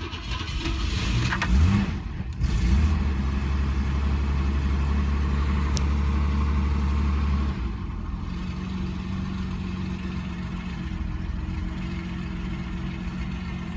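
The Opel Commodore C 2.5S's carburetted 2.5-litre straight-six is cranked by its starter on a cold start. It catches after about two and a half seconds and runs at raised revs. About five seconds later it drops to a lower, steady running speed.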